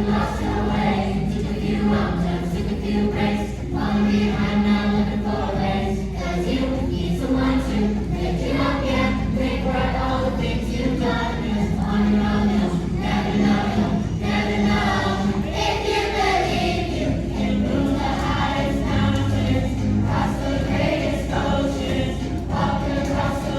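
Choir singing a song with instrumental accompaniment, held low notes sounding steadily under the voices.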